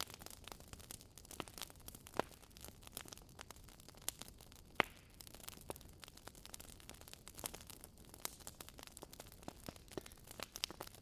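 Burning wood logs crackling in a fireplace: irregular sharp pops and snaps, several a second, over a faint hiss, with one louder pop about five seconds in.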